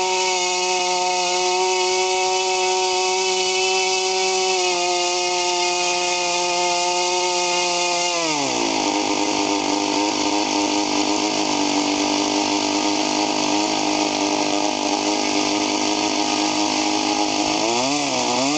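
O.S. 49-PI Type II Wankel rotary glow engine on 15% nitro fuel, turning a 10x6 propeller during its break-in. It runs steadily at high speed, then is throttled back about eight seconds in, its high whine falling to a lower steady pitch. Near the end it blips briefly.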